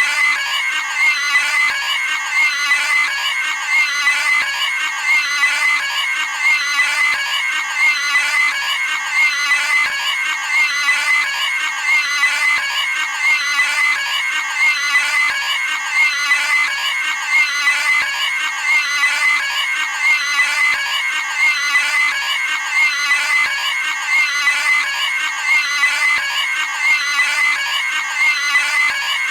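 Cartoon pig screaming sound effect: a high-pitched pig squeal repeated over and over in an even loop.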